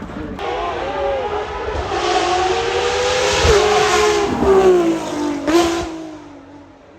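A high-performance car's engine accelerating hard as it passes, its note dipping briefly at gear changes, loudest around the middle and then fading away.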